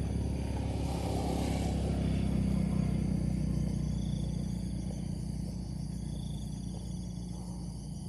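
A motor running steadily, swelling slightly a couple of seconds in and easing off again. A sharp knock near the end, where the sound cuts off.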